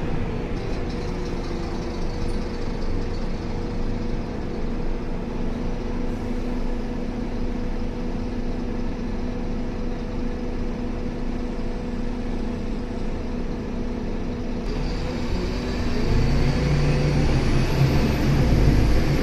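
Scania K280 bus engine running steadily with a constant low hum and a faint steady whine, growing louder and heavier near the end.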